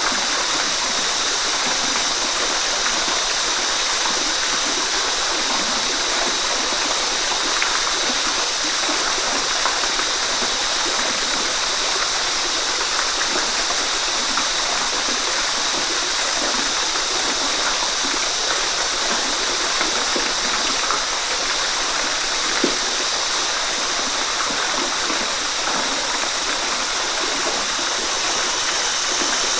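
Waterfall: falling water rushing steadily, a hissing sound with little low rumble.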